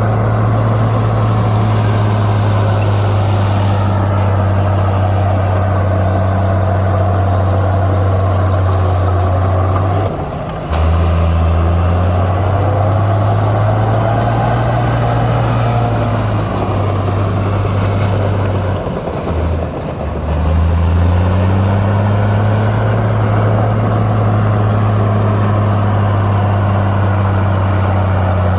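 Heavy diesel engine of earthmoving machinery running steadily under load. Its pitch drops briefly about ten seconds in and again near twenty seconds, then climbs back as it revs up.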